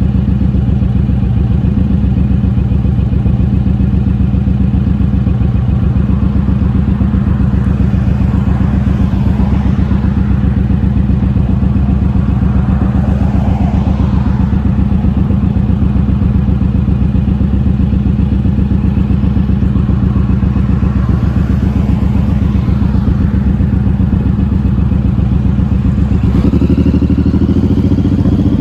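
Motorcycle engine running steadily at riding speed, its revs climbing near the end.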